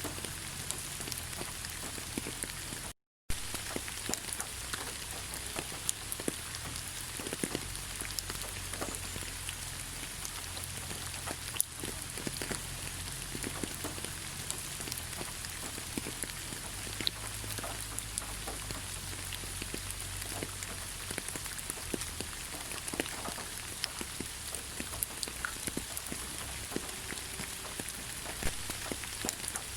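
Steady rain: a constant even hiss with many separate drops ticking through it. The sound cuts out completely for a moment about three seconds in.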